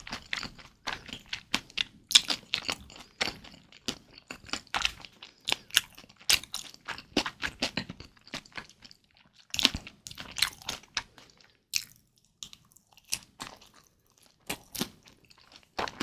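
Close-miked chewing of kimchi dumplings: a rapid, irregular run of wet crunches and crackles, with a short pause a few seconds before the end.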